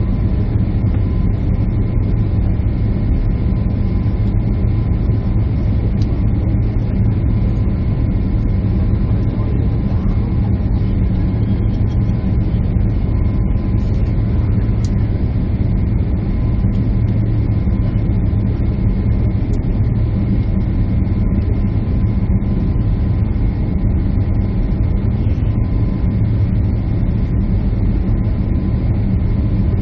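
Steady cabin noise inside a jet airliner: a constant low rumble of engines and rushing air, with a faint steady whine over it.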